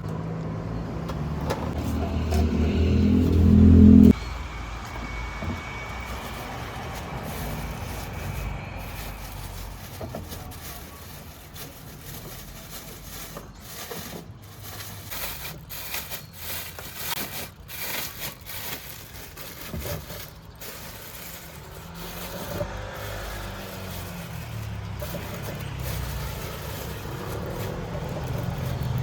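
A motor vehicle's engine running close by, growing louder and then cutting off abruptly about four seconds in. Street noise follows, with scattered short clicks and scrapes, and an engine hum that builds again near the end.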